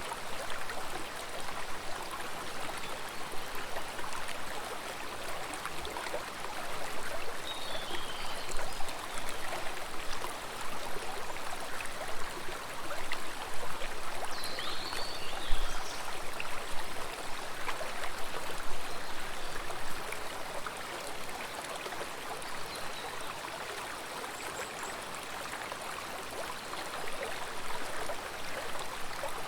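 Stream of water flowing and babbling steadily, with small surges in level. A few short high chirps come through about a quarter of the way in, halfway through, and at the very end.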